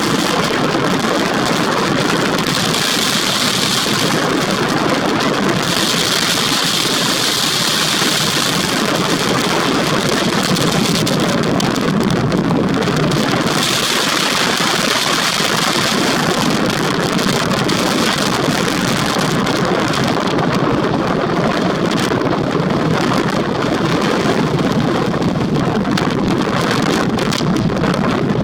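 Steady, loud rushing noise of a sea storm: strong wind and breaking waves, with hissier gusts a few seconds in and again around the middle.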